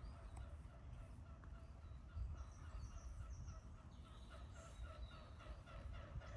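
Waterfowl calling in a fast series of repeated honking notes, louder in the second half, with a small bird's short high chirps about two and a half seconds in and a steady low rumble underneath.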